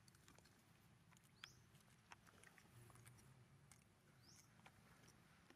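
Near silence: faint outdoor ambience with scattered light clicks and a bird's short, high, rising chirp twice.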